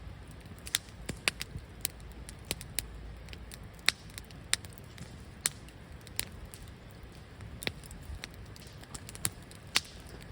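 Wood campfire burning in a fire pit, crackling with irregular sharp pops over a low steady rumble.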